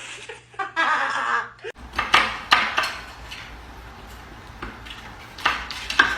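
A series of sharp knocks and clatters of hard objects, several in quick succession about two seconds in and more near the end.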